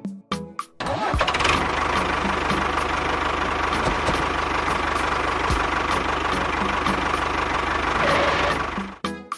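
An engine starts after a few short knocks, runs steadily and loudly for about eight seconds, then cuts off near the end.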